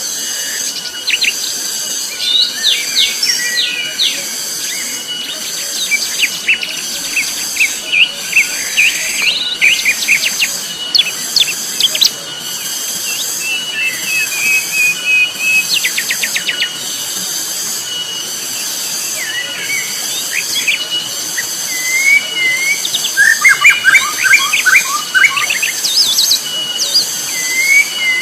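Cicadas singing very loudly: a high buzzing drone that pulses in a steady rhythm, roughly once a second. Forest birds chirp and whistle over it, with a quick burst of rapid notes about two-thirds of the way through.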